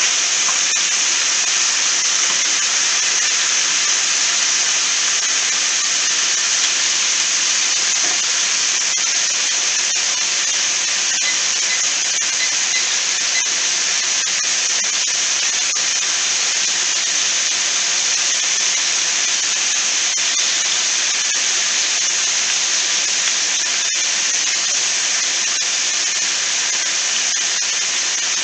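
Bite-sized chicken pieces sizzling steadily in hot oil in a skillet, with scattered small crackles.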